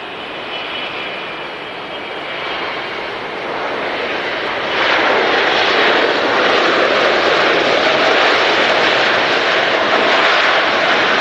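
Jet airliner on landing approach passing close overhead: a wide engine roar with a faint high whine at first, swelling and growing sharply louder about halfway through, then holding loud.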